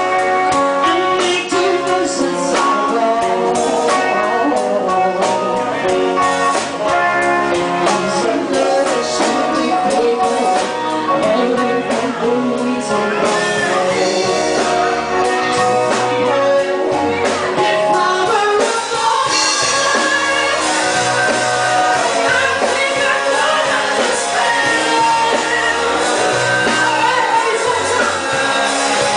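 A band playing a rock/pop song with guitar and drum kit, with a singer's voice over the music.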